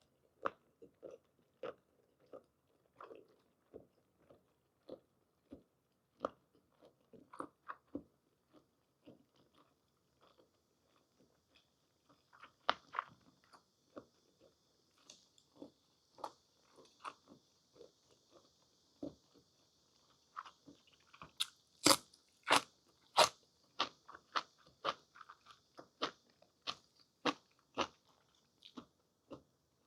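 Close-miked chewing of blanched whole squid and scallions: scattered wet mouth clicks and smacks, louder and more frequent in the last third.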